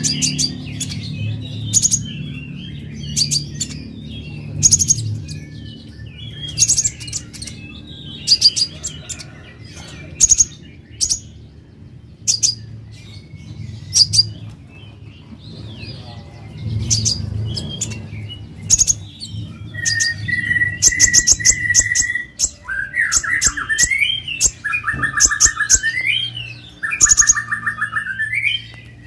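Kolibri ninja (sunbird) singing: sharp high chirps every second or two, then, from about two-thirds of the way in, a run of steady whistled notes and warbling phrases. A low background rumble runs underneath, fading in the last third.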